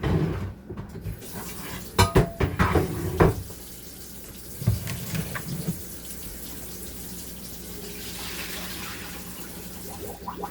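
Kitchen tap running into a sink in a steady hiss, with knocks and clattering of dishes about two to three seconds in.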